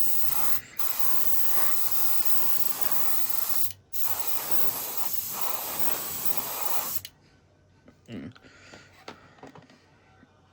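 Aerosol spray paint can spraying in long hissing bursts onto plastic model parts. There are short pauses about half a second and about four seconds in, and the spray stops sharply about seven seconds in.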